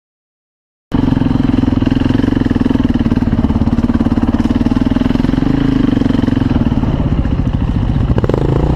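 Motorcycle engine running steadily close to the microphone, a fast, even pulsing beat with little change in pitch, starting abruptly about a second in.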